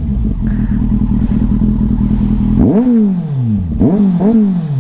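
Kawasaki Z800's inline-four engine idling, with sharp throttle blips: one rev rising and falling back about three seconds in, then two quick blips near the end.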